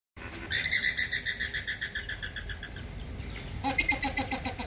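Flamingo calls: a fast, repeated chatter of high notes. About three and a half seconds in, a run of lower-pitched notes joins it.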